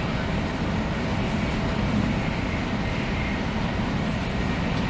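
Running noise of a 300 Series Shinkansen heard from inside the passenger car: a steady low rumble of wheels on rail and rushing air.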